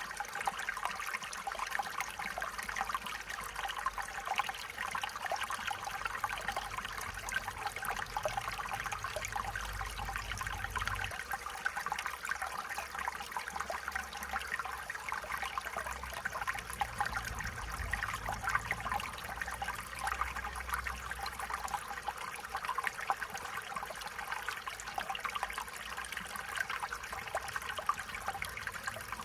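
Stream water flowing and trickling steadily over stones, a continuous babbling with no breaks.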